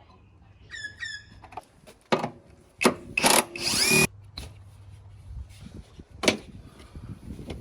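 Power drill running for about a second, about three seconds in, its whine rising in pitch. A few sharp clanks and knocks come before and after it.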